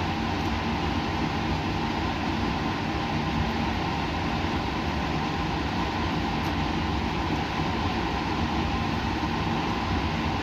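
Steady laboratory machine noise: a continuous hiss with a low hum and a few steady tones underneath, unchanging throughout.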